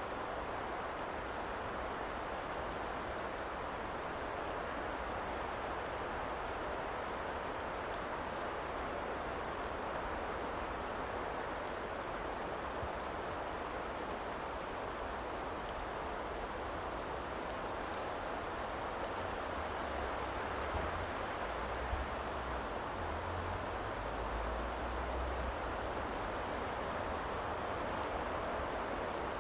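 Steady white-noise ambience: an even hiss, with faint, short high chirps now and then and a low rumble about two-thirds of the way through.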